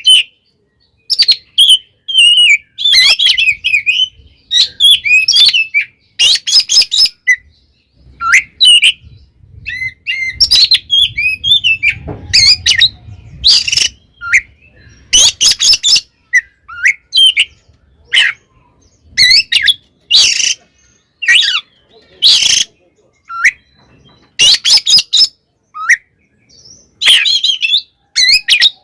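Oriental magpie-robin (kacer) singing in quick bursts of varied whistles, trills and harsh rasping notes, with short pauses between phrases. This is the bird's excited, aggressive fighting song.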